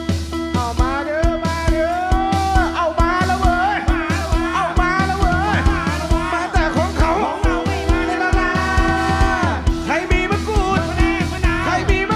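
Live band playing: a lead melody with sliding pitch bends over steady chords, bass and a regular drum beat.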